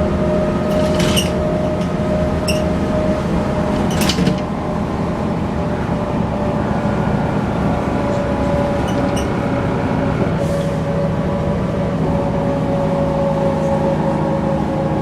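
Mercedes-Benz O405 N² city bus under way, heard from inside the passenger cabin: the diesel engine and Voith automatic gearbox drone steadily with a held whine whose pitch drops slightly about three seconds in. A few brief clicks and rattles come through, loudest about four seconds in.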